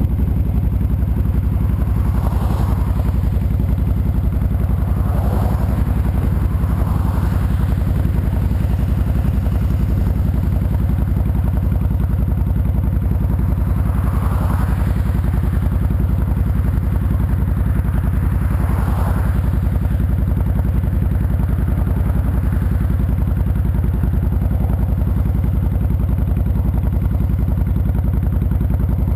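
2007 Honda VTX 1300C's V-twin engine running steadily at an even pitch, with a few faint brief swishes over it.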